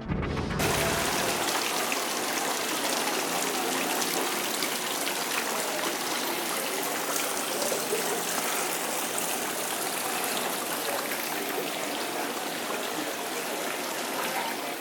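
Steady hiss of running, splashing water with faint patters, with no change throughout.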